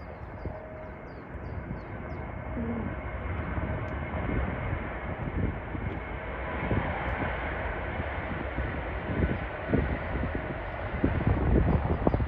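Jet airliner engines running, a steady roar of noise that slowly grows louder as the aircraft approaches, with wind buffeting the microphone.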